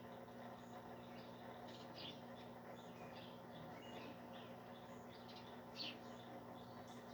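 Faint, scattered short bird chirps, with one slightly louder chirp about six seconds in, over a steady low hum.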